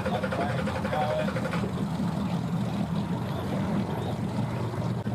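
Engines idling: a steady low hum, with faint voices and a short wavering tone in the first second or so.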